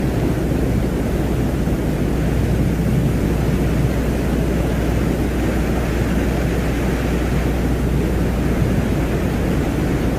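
Steady, low noise drone with a fainter hiss higher up and no change in level: a space-ambience track presented as the sound of the planet Venus.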